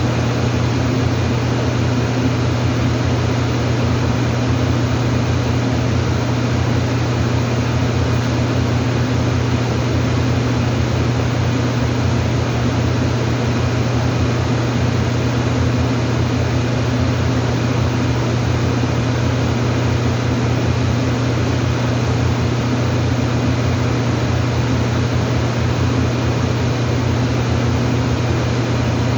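Steady machine drone: a constant low hum under an even rushing noise, unchanging throughout.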